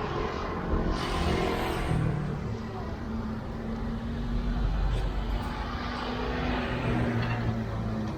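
Road traffic, with motor vehicle engines running and tyre noise. Vehicles swell past about a second in and again around six seconds.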